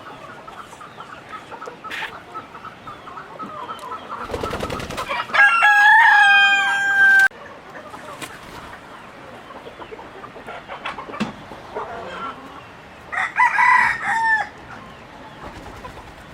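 Rooster crowing: one long call about five seconds in that ends abruptly, and a shorter call near the end, over chickens clucking.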